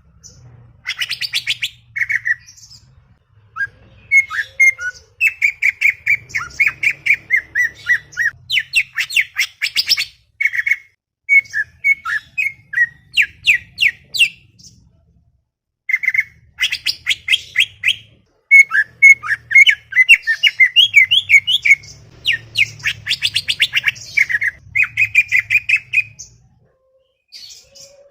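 Cucak ijo (green leafbird) singing a fast, chattering song: quick runs of high notes in bursts of several seconds, broken by short pauses.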